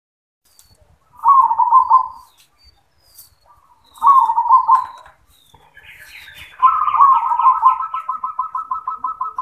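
Zebra dove (perkutut) cooing: two short rolling coo phrases, then a longer fast run of rapid coo notes that carries on to the end.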